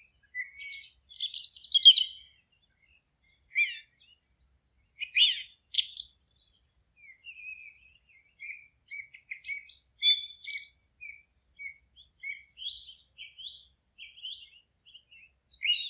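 Songbirds singing: short chirps and trilled phrases from several birds, separated by brief silences.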